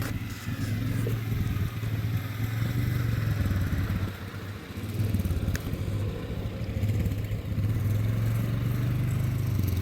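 An engine running steadily with a low, rapidly pulsing drone, dipping briefly in level about four seconds in.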